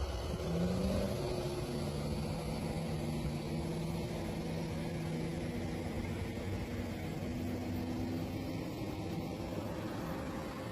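John Deere tractor engine running steadily, its revs rising briefly about half a second in.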